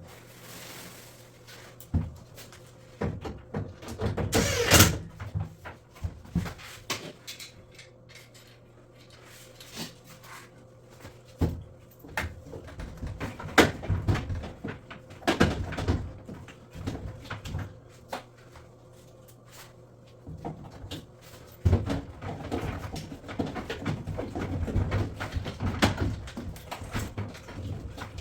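Irregular knocks, clunks and scraping of drum washing machine parts and panels being handled and fitted during reassembly, with a longer scrape about four seconds in and a sharp knock near the middle.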